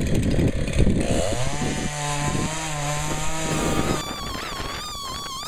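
Chainsaw cutting wood with a rough, noisy sound, then revving up about a second in and holding a steady high-speed note. Near the end the saw sound stops abruptly and a wavering, higher tone takes over.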